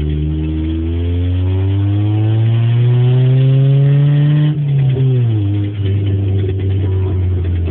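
Fifth-generation Honda Civic engine running with no exhaust fitted, revved slowly up from idle for about three seconds, then dropping quickly back to idle when the throttle is released.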